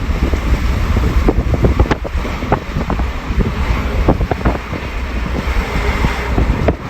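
A passenger train running at speed: a steady low rumble with many irregular clicks and rattles.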